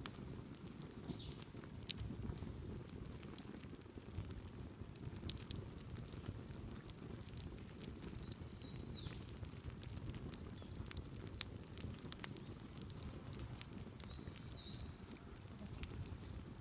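Open wood fire crackling, with irregular sharp pops and snaps over a low steady rumble of burning.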